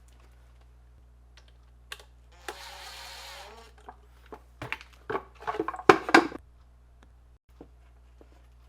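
A brief whirr about two and a half seconds in, then a run of sharp clicks and knocks from small hard objects being handled and set down, the loudest about six seconds in, over a steady low hum.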